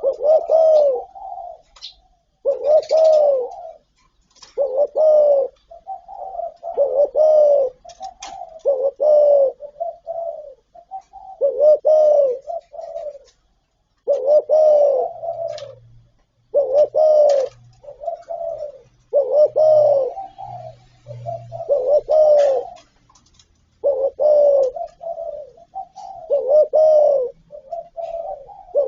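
Spotted dove cooing: a phrase of rounded coos repeated about every two seconds, each phrase opening with a loud down-curving note followed by shorter coos.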